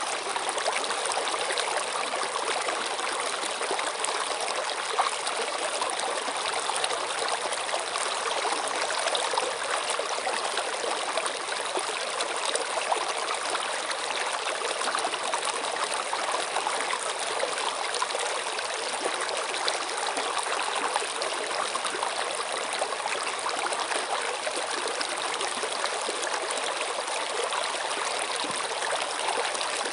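Flowing water running steadily, a continuous splashing hiss with little deep rumble.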